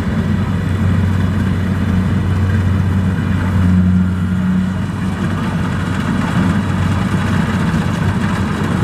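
Kubota DC-70 Plus rice combine harvester's diesel engine running steadily under harvesting load, a deep, even hum that swells briefly about four seconds in.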